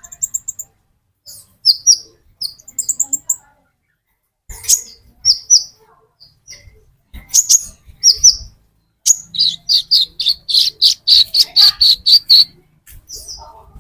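Sunbird (konin) song: sharp, high chirps in short groups with pauses, then a fast run of evenly repeated notes lasting about three seconds, beginning about nine seconds in.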